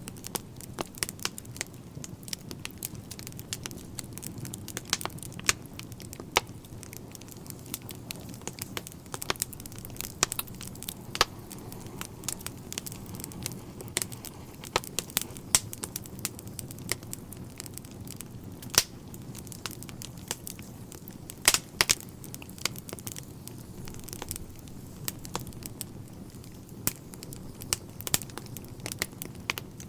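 Wood fire burning in a fireplace: a steady low rumble of the flames with constant irregular crackling and snapping of the logs, a few louder pops about 19 and 22 seconds in.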